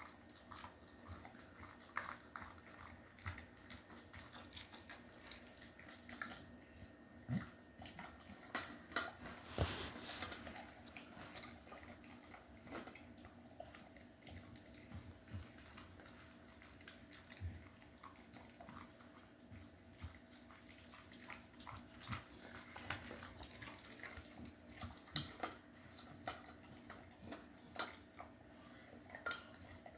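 A pet eating a snack: irregular wet smacking and clicking sounds of chewing and licking, over a low steady household hum.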